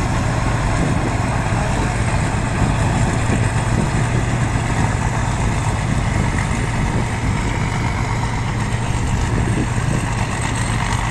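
Tractor engine running steadily, an even low engine hum with no change in speed.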